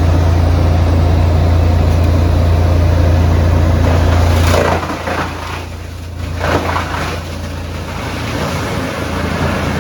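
Electric-motor-driven drum wood chipper running with a steady low hum. A little over four seconds in, the hum drops and loud rushing surges follow, twice, as branches go through the drum.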